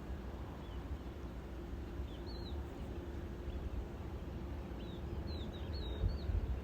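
Short, thin, high chirps from small birds: a couple about two seconds in and a quick cluster near the end, over a low steady rumble.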